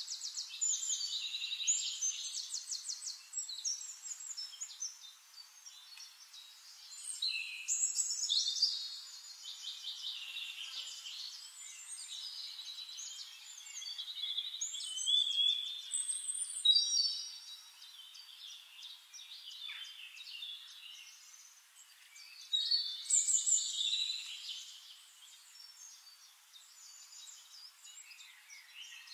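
Songbirds singing in bursts of rapid, high trills and chirps, with quieter stretches between the phrases.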